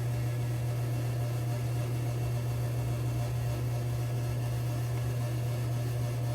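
A steady low hum with an even hiss over it, unchanging throughout, like a fan or small motor running.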